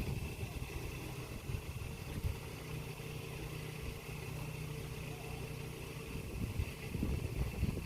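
A steady low engine hum, as of a motor idling.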